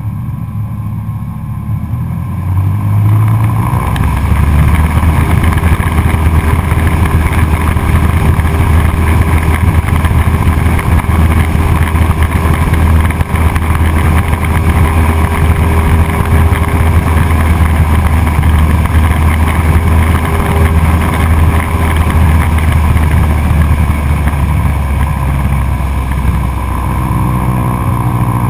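Cessna 172SP's four-cylinder Lycoming engine and propeller running: the drone steps up to a loud, steady level about three seconds in, holds there, and eases slightly near the end.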